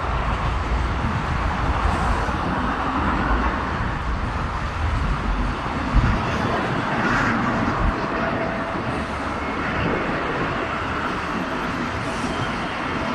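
Steady outdoor rumble and hiss, with one thump about six seconds in.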